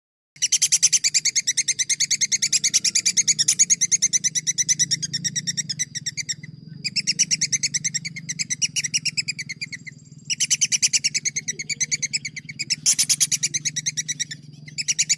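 Songbird song from a bird-training recording: long, fast trills of sharp repeated notes, rolled on in three runs with short breaks about six and ten seconds in. A steady low hum lies under the song.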